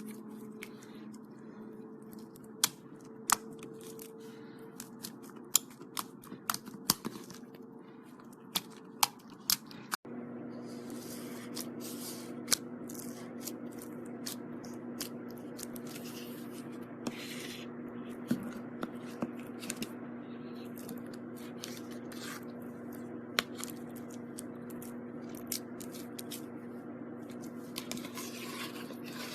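Slime mixed with styrofoam beads being squeezed and worked by hand, giving sharp crackling pops and clicks at irregular intervals, more of them in the first third, over a steady background hum.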